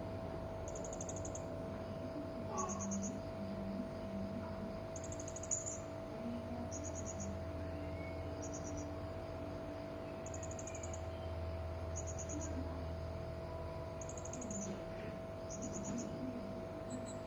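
Hanging parrot (serindit) giving short, very high-pitched trilled calls, repeated about once every second or so, over a steady low hum.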